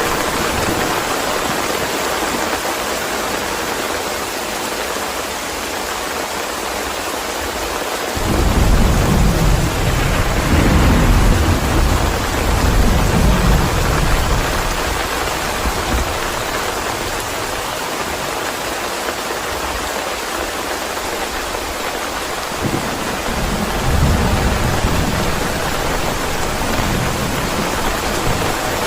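Steady rain with thunder. A low rumble breaks in suddenly about eight seconds in and rolls on for several seconds, and a second, weaker rumble comes past the twenty-second mark.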